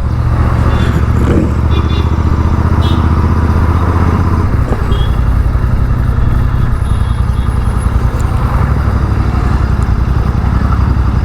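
Motor vehicle engine running steadily in street traffic, a low hum with road noise over it.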